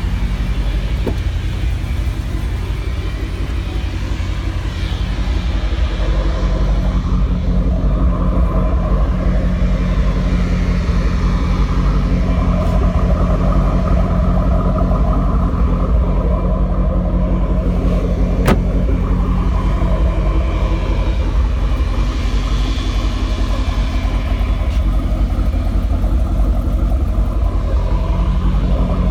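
2013 Camaro ZL1's twin-turbo V8 idling with a steady, deep rumble that holds the same pitch throughout. A single sharp click sounds about eighteen seconds in.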